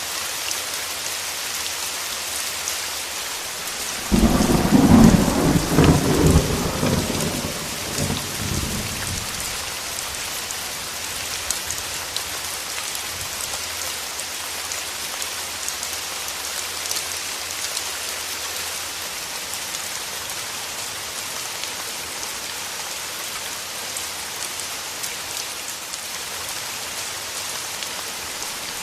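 Steady rain falling. About four seconds in, a sudden clap of thunder breaks in and rumbles for several seconds before fading back under the rain.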